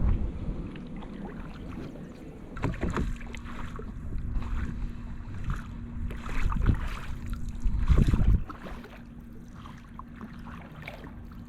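Kayak paddle dipping and splashing through calm water in irregular strokes. Gusts of wind rumble on the microphone, strongest at the start and about eight seconds in. A faint steady hum runs underneath from about three seconds in.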